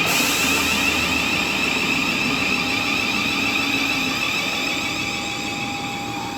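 Thameslink electric multiple unit running through the station: a steady rushing noise with a high whine from the traction equipment, easing off slowly toward the end.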